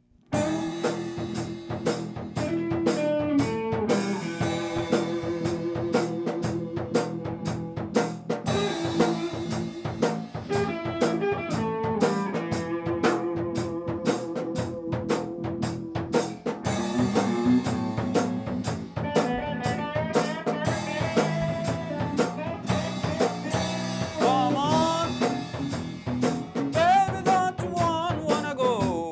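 A band playing an instrumental passage with a blues feel over a steady drum-kit beat. It starts suddenly just after the start, and bending lead notes come in near the end.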